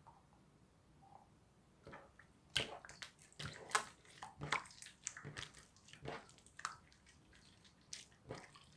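Slime being squeezed and kneaded by hand, giving irregular wet pops and squishy clicks that start about two seconds in and come thick for a few seconds, with one more near the end.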